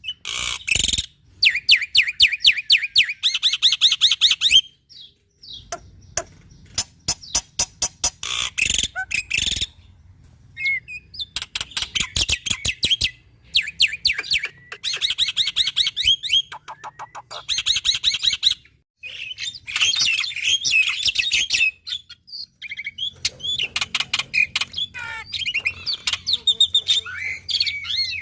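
Black-winged starling (jalak putih) singing in full voice. It makes rapid runs of clicking, rattling notes, each a second or two long and broken by short pauses, with harsh chatter and short whistled glides near the end.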